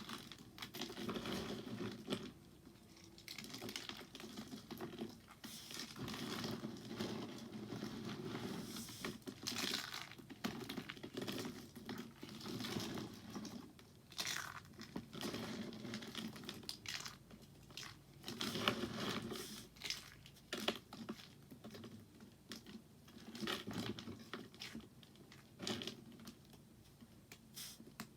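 Soap being worked by hand: irregular crisp crackling, crumbling and clicking, coming in stop-start bursts.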